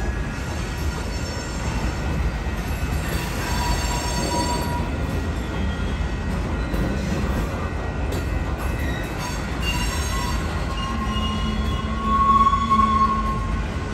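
Freight train of covered hopper cars rolling slowly through a grade crossing: a steady low rumble of steel wheels on rail, with thin, high wheel squeal coming and going.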